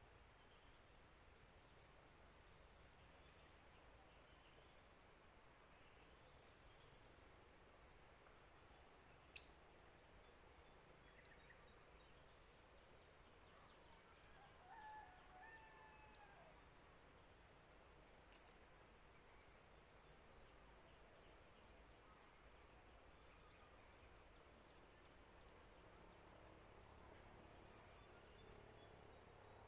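A steady, very high-pitched insect trill like a cricket's, pulsing continuously. Three short, louder buzzy bursts come about 2, 6 and 27 seconds in, and a faint chirp is heard around the middle.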